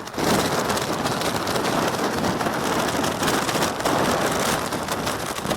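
Blizzard wind blasting across the microphone while driving snow pelts the camera's rain cover, a loud, steady hiss full of fine pattering hits.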